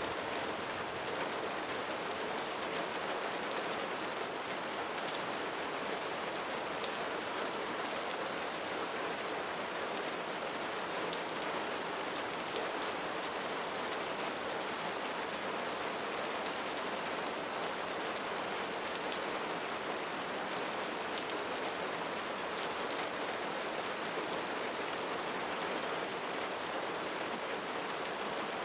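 Steady rain falling on leaves, an even hiss with scattered individual drops ticking through it.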